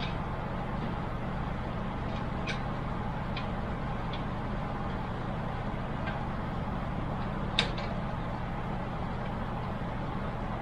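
Steady low hum with a few small sharp clicks and taps of computer parts being handled inside a PC case; the sharpest click comes about seven and a half seconds in.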